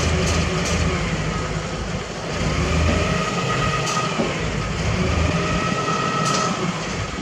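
Heavy diesel construction machinery running steadily, with a high whine that swells and fades twice and a few sharp knocks.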